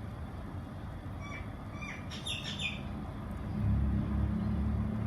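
Birds chirping a few short calls, then about three and a half seconds in a low, steady diesel engine rumble grows louder and takes over: the approaching 81 class diesel locomotives of a freight train.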